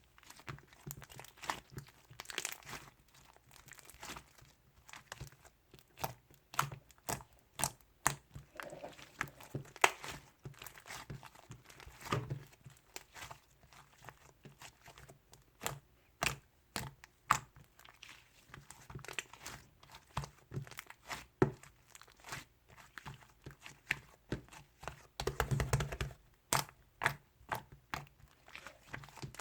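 Close, irregular rustling and crinkling with many sharp little clicks and tearing sounds, like paper or packaging being handled, with a longer, louder burst of rustling near the end.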